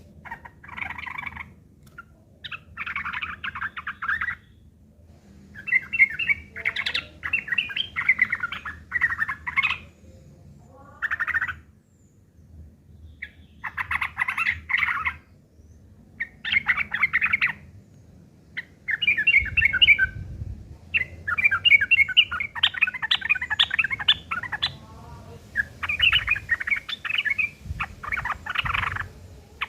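Yellow-vented bulbuls (trucukan) singing in repeated bursts of fast, rough, bubbly chattering, each burst one to two seconds long with short pauses between: the harsh 'fighting' chatter of agitated birds.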